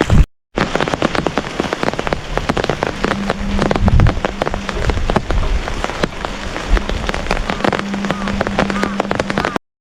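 Rain pattering on a hard surface: a dense run of separate drop strikes over a steady hiss. It breaks off briefly just after the start, with a faint low hum heard twice.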